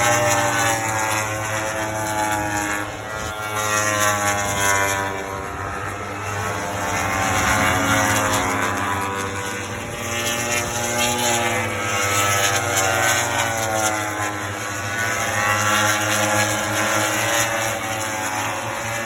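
Several MotoGP racing motorcycles' four-cylinder engines running at once, their pitches rising and falling throughout.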